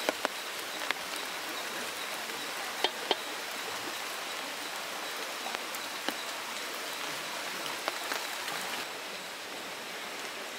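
Steady rain falling, a constant hiss with scattered sharp drip clicks.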